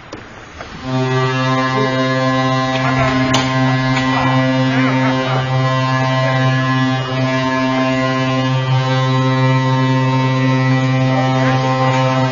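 Ice rink horn sounding one long, steady blast of about eleven seconds, starting about a second in: the end-of-period signal.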